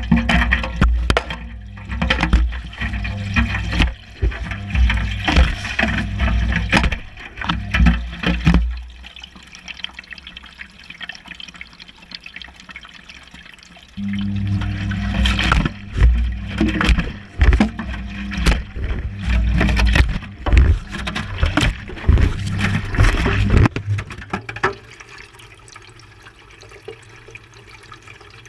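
Water sloshing and splashing inside a Whirlpool Indiana 1400 washing machine drum as it tumbles the wash, heard from inside the drum, with a low rumble and frequent knocks. The tumbling stops about nine seconds in, starts again about five seconds later, and stops again near the end, the drum's turn-and-pause wash cycle.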